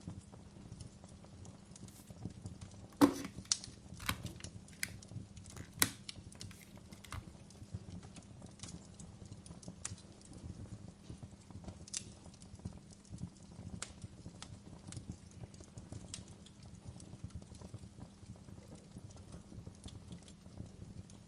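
Fireplace fire crackling: a steady low rumble with scattered sharp pops and snaps, a few louder pops coming close together between about three and six seconds in.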